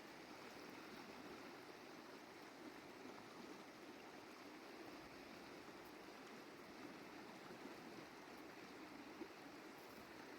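A stream flowing, a faint, steady rushing of water.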